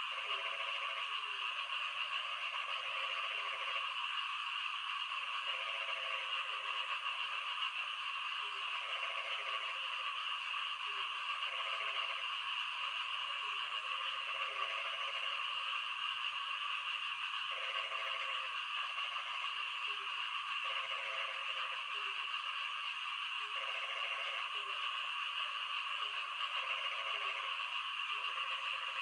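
Frogs croaking during rain: repeated low, pulsed calls in short runs about a second long, coming every second or two over a steady hiss of rain.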